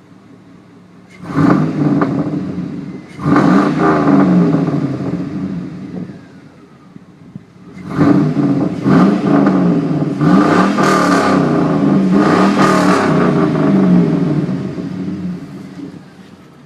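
2005 GMC Z71 pickup's engine revved through straight pipes with 4-inch tips: a low idle, two revs about a second and three seconds in, then a longer run of repeated revs about halfway through, dropping back to idle near the end.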